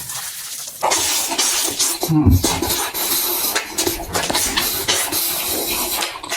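Close-miked crunching and chewing of crisp food, dense crackling with many sharp snaps.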